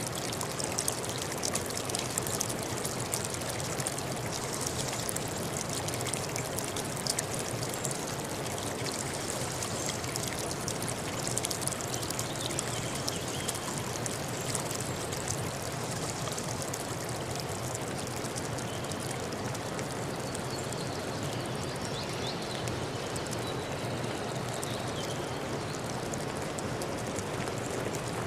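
River water flowing steadily, with splashing and trickling over rocks.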